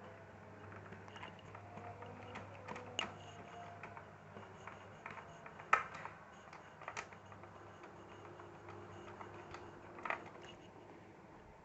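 Scattered small clicks and taps of a screwdriver and plastic parts on an HP Compaq CQ40 laptop casing being screwed and fitted back together, the sharpest clicks about 3, 6, 7 and 10 seconds in.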